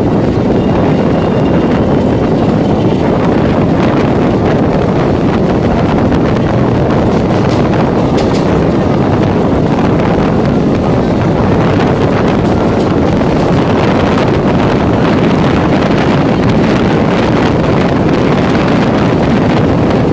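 Steady rumble of an EMU electric local train running, heard from on board, with wind buffeting the microphone.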